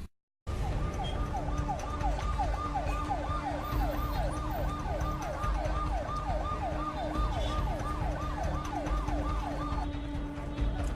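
Emergency vehicle siren in a fast yelp, about three falling sweeps a second, over a steady lower tone and a low rumble; it starts just after a brief gap and stops near the end.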